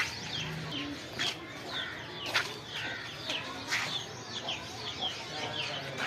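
Birds chirping busily, short high chirps several a second, with a few louder, sharper calls now and then.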